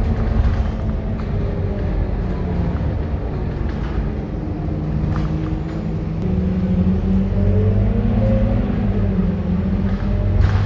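Scania K230UB city bus's five-cylinder diesel engine running under way. The engine note dips about four seconds in, then climbs steadily as it accelerates before easing off near the end, with a few light rattles and clicks.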